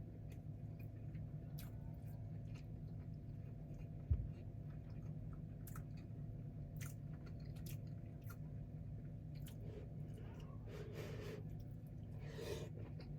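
A person chewing food, with faint small crunchy clicks, over a steady low hum; one brief low thump about four seconds in.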